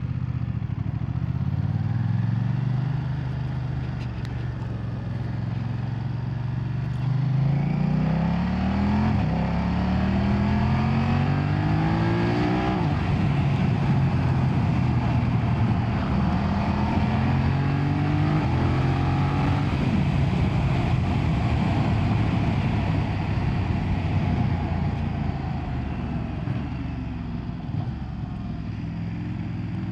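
BMW F900R's 895cc parallel-twin engine under way, rising in pitch through the gears in several steps with a drop at each shift, settling to a steady run, then accelerating again.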